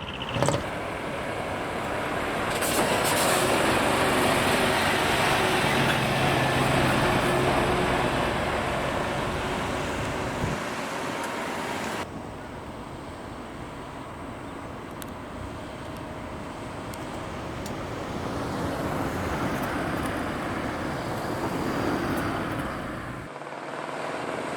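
Heavy diesel trucks driving out one after another, their engines and exhausts loud and running under load. The sound changes abruptly about halfway through and again near the end, from one truck to the next.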